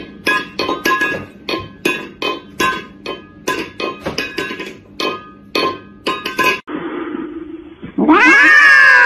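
A metal food bowl clanks and rings as a cat paws it and tips it against the floor, in a quick irregular run of about two to three strikes a second. Near the end a cat yowls loudly into a microphone in one long call that falls in pitch.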